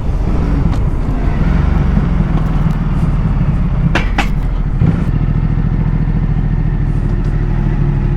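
Ducati Multistrada motorcycle engine running steadily, with two short sharp clicks about four and five seconds in.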